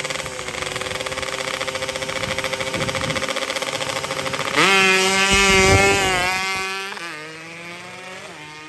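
Drag-race motorcycle engine running at high revs. About halfway through the pitch and loudness jump up sharply and hold for about two seconds, then drop away near the end.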